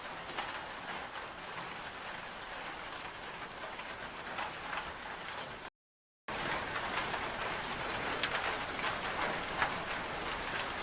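Steady rain falling, with many small drops ticking close by. About halfway through it drops out to dead silence for half a second, then comes back a little louder.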